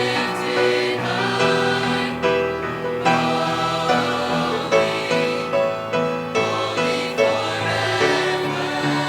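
Mixed-voice choir singing a gospel worship song in harmony, holding chords that change every second or so.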